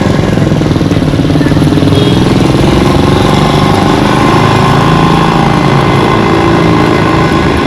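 A motor vehicle engine running close by, steady with a fast pulsing beat.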